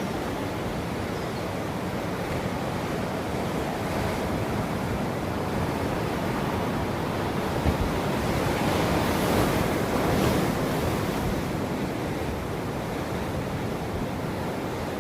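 Ocean waves washing onto the shore in a continuous surf, swelling louder around the middle as a wave breaks and then easing off.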